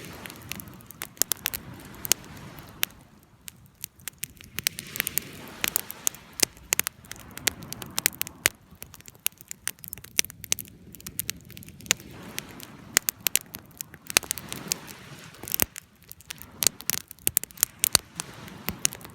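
Fire crackling steadily, with many irregular sharp pops and snaps over a soft low rush of flame.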